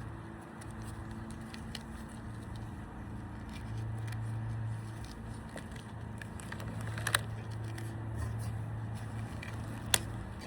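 Rubber bands being stretched and snapped around a watermelon, with faint crackling and two sharp snaps about three seconds apart, over a steady low hum.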